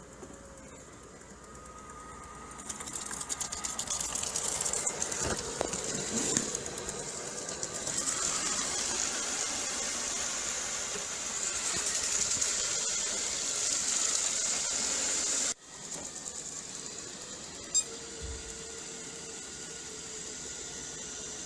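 A robot vacuum cleaner running: a steady motor whine with brush and rattling noise that comes up about three seconds in, breaks off suddenly partway through, then carries on more evenly.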